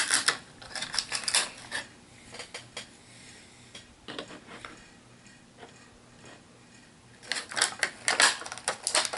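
Hard plastic HeroClix miniatures and booster pieces being handled, clicking and clattering against each other. There are bunches of clicks at first, only scattered ones in the middle, and a dense clatter near the end.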